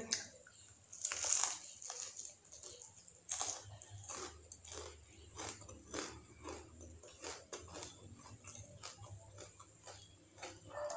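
Biting into and chewing crispy ayam geprek (battered, smashed fried chicken) close to the microphone: a loud crunching bite about a second in, then a steady run of crunchy chews, roughly one to two a second.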